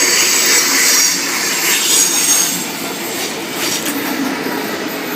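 V-set double-deck electric intercity train running along the platform with a high wheel squeal. The squeal is loudest in the first couple of seconds, then fades, leaving quieter rolling noise.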